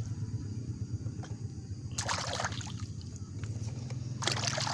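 Water sloshing in a basin as muddy toys are washed, with two short splashes, about two seconds in and near the end, over a steady low hum.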